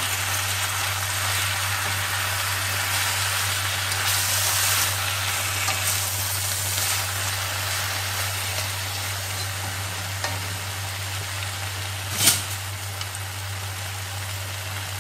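Water spinach (kangkong) and sliced onion sizzling in a wok as they are stir-fried with a spatula: a steady frying hiss, with one sharp knock about twelve seconds in.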